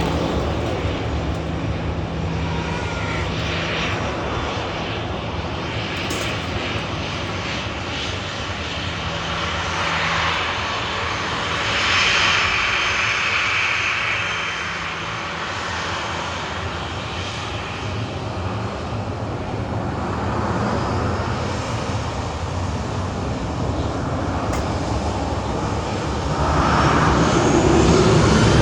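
Airliner's engines running at takeoff power, a steady noisy rush that grows louder near the end.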